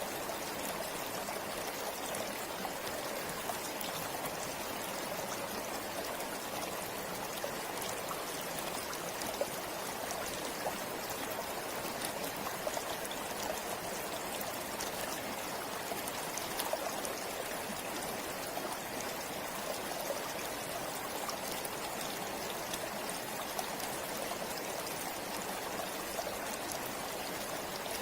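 River flowing steadily: an even rush of running water with small splashes and drips scattered through it.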